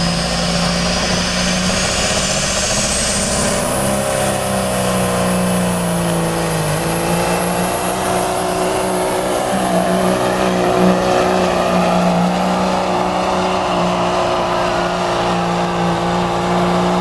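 Caterpillar 3406 diesel in a pulling truck running flat out under load, dragging the sled. A high whine rises over the first few seconds and then holds. The engine note sags briefly about six seconds in, then holds steady.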